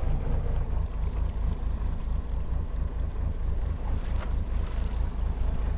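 Wind buffeting the microphone in a steady low rumble, over the wash of the sea around a small fishing boat.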